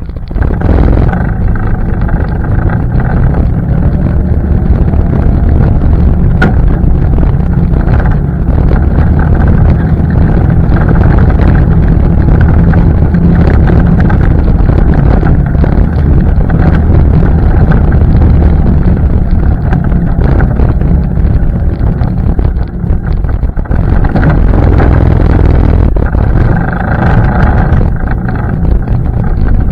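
ATV engine running under way, loud and steady with a deep rumble. It comes up in level right at the start.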